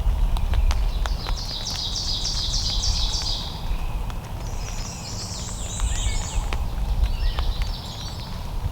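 A small songbird singing three bursts of quick, repeated high notes, over a steady low rumble of wind on the microphone, with scattered light ticks.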